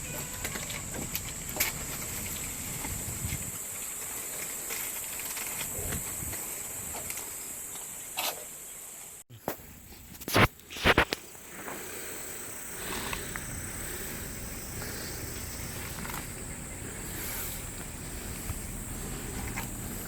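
Angry cat hissing in a few short, sharp bursts about halfway through, over steady outdoor background noise with a constant high hum.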